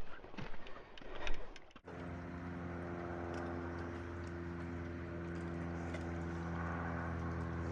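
Footsteps and knocks, then after a sudden cut about two seconds in, an engine running steadily at an even pitch.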